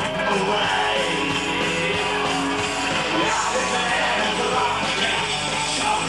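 Punk rock band playing: electric guitars and drums at a steady, loud level.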